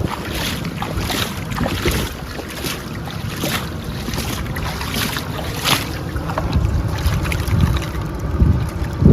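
Wind buffeting the microphone, with scattered light clicks and knocks throughout and a louder knock at the very end.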